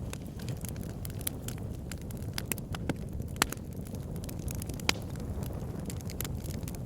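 Wood fire in a log burner, burning with a steady low rumble and frequent sharp crackles and pops, two louder pops about three and a half and five seconds in.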